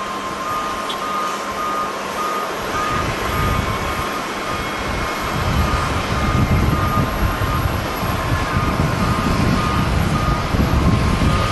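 A vehicle's reversing alarm beeping steadily in a regular series of short beeps, over a low rumble that grows louder about halfway through.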